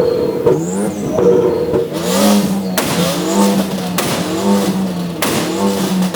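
A car engine is revved hard over and over, its pitch rising and falling about once a second. From about two seconds in, a loud rush of noise and a few sharp cracks join it.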